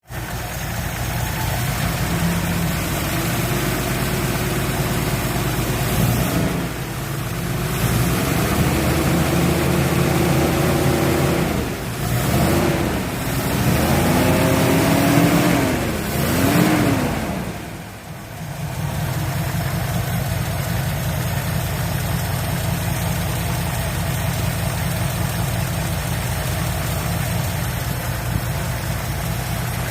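Jeep CJ6's six-cylinder engine idling steadily, revved up and let fall back several times in the middle, then settling back to a steady idle for the second half.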